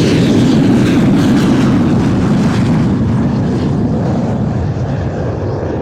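Soko G-2 Galeb jet trainers flying past: a loud, steady jet rumble whose hiss thins out from about three seconds in as the aircraft draw away.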